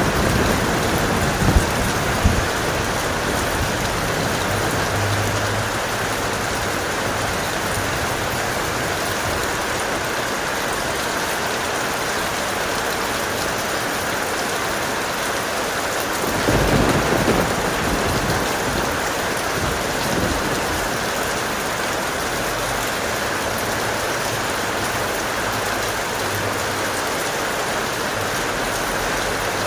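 Steady heavy rain, with two sharp cracks about a second and a half and two seconds in. A short low rumble of thunder comes about sixteen seconds in.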